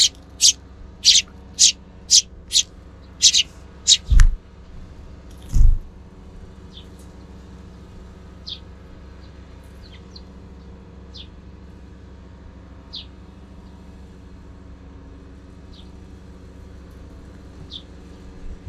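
Eurasian tree sparrows chirping: a run of loud, short chirps about two a second, then only scattered fainter chirps. Two low thumps come about four and five and a half seconds in, over a steady low rumble.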